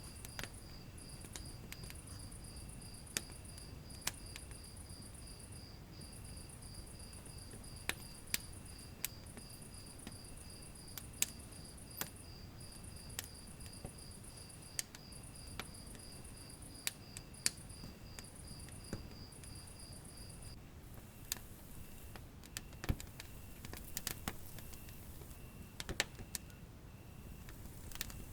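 Wood fire in a fireplace crackling, with scattered sharp pops over a low rumble of flame. A high, rapidly pulsing insect chirp runs alongside and stops about two-thirds of the way through, while a fainter, slower chirp keeps going.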